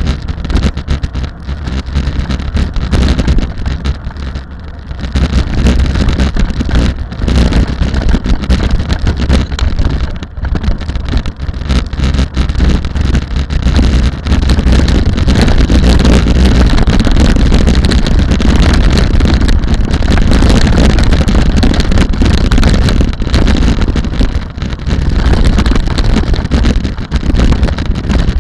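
Rally car engine running hard at sustained high load, with wind buffeting the microphone; it grows louder about five seconds in.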